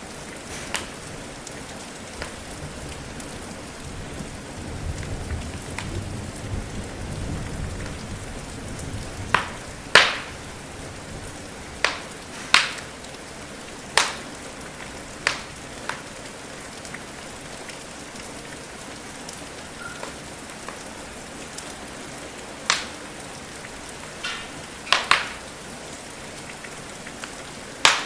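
Steady rain hiss with a crackling wood fire: sharp single pops of burning wood every few seconds, loudest around ten seconds in and again near the end. A soft low rumble swells and fades between about four and nine seconds in.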